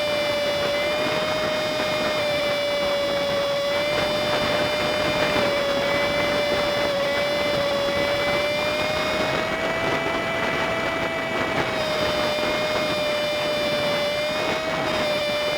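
Honda Super Cub 50's small single-cylinder engine running steadily at cruising speed, with wind and road noise, as picked up by a handlebar dashcam and played back fast-forward at five times speed. One steady held tone drifts slightly in pitch, with fainter higher tones above it.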